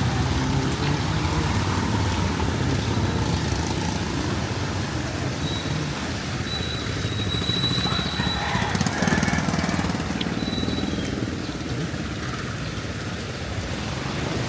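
Motor vehicle engines running in street traffic: a steady low engine rumble over a constant background of street noise.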